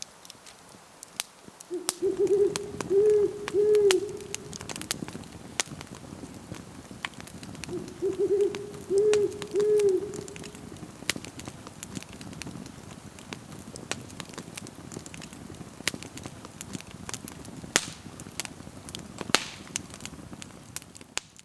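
An owl hooting: two short phrases of a few low hoots each, about six seconds apart. Sharp crackles from a campfire pop throughout.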